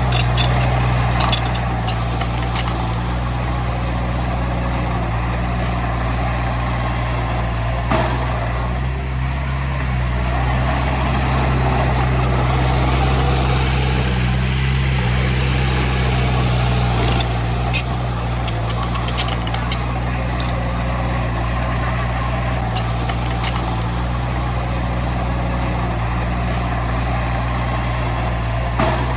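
Heavy diesel engine of earth-moving equipment running steadily, with scattered sharp metallic clanks and clicks.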